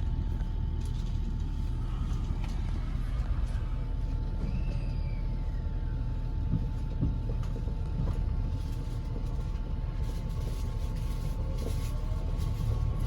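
Running noise heard aboard a JR Kyushu 883 series limited express train: a steady low rumble with a faint steady tone above it, and a brief faint falling whistle-like glide a few seconds in.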